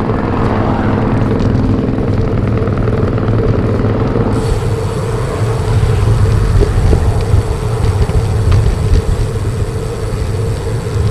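Wind buffeting the microphone as a road bike is ridden into strong gusts, a loud, steady low rumble. In the first four seconds a passing motor vehicle's engine hum is also heard.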